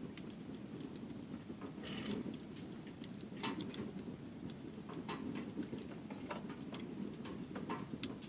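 Wood fire burning in a fire box: irregular crackles and sharp pops over a low, steady rush of flame.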